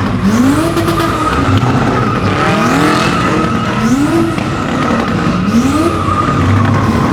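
A car engine revving up about four times in a row while its tires squeal without a break: a car spinning its tires.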